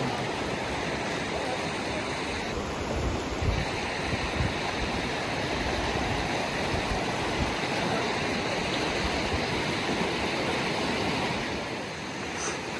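Small stream running: a steady rush of water that eases slightly near the end.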